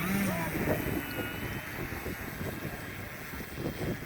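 Wind buffeting the microphone in an uneven low rumble, with a faint, steady high-pitched whine behind it.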